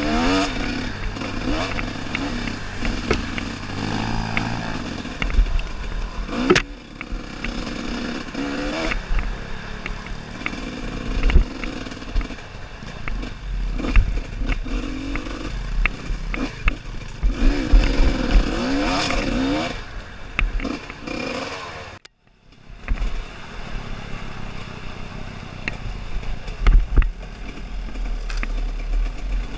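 Off-road dirt bike engines revving up and down hard, with scattered knocks and clatter. The sound drops out briefly about two-thirds of the way through.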